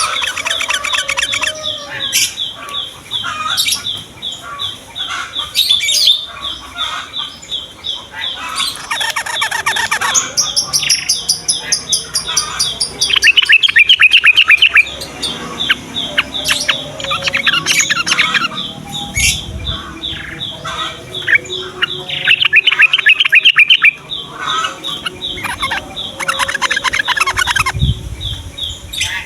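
Yellow-vented bulbuls chattering and singing in a lively chorus. Under them runs a steady, fast row of high chips. Loud, rapid trilled bursts come about halfway through and again a few seconds later.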